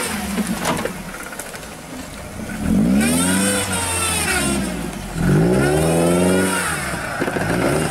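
Engine of a lifted small 4x4 revving hard twice under load as it climbs a steep slope off-road, the pitch rising and then falling each time.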